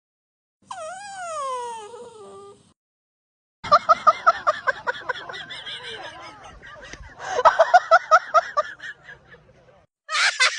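A drawn-out cry falling in pitch, then two bursts of rapid, evenly pulsed high cries, about five a second, like laughter or yipping.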